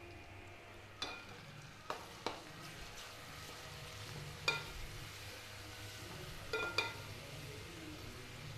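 Chopped onions, tomatoes and ginger-garlic frying in coconut oil with a faint sizzle while a spoon stirs them in the pan, knocking against the metal pan about six times with short ringing clinks.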